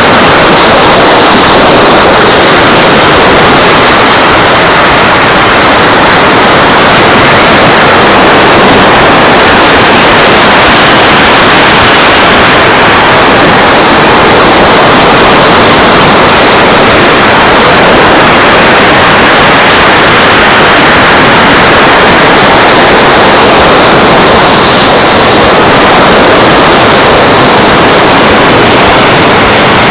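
Beach ambience: a loud, steady rushing of surf and wind, swelling slightly a couple of times.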